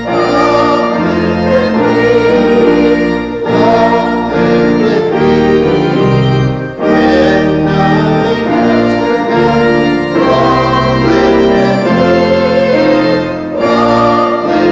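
Church organ playing sustained chords in phrases a few seconds long, with brief breaks between them.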